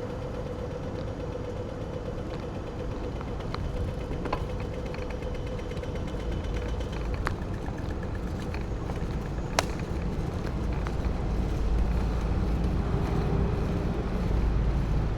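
A bicycle on the move: low wind rumble on the microphone, growing louder in the second half, with creaks and a few sharp clicks from the bike.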